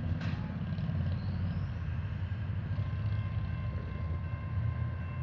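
Steady low rumble of a long freight train's cars rolling past.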